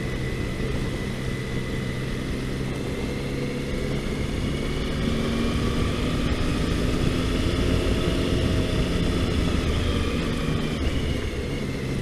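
Triumph Tiger motorcycle engine running at low road speed. Its pitch and loudness climb a little through the middle, then ease back near the end.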